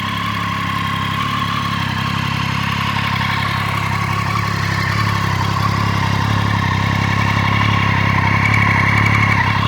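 Triumph Street Triple 675R's 675 cc inline three-cylinder engine running steadily at low revs, gradually growing louder toward the end.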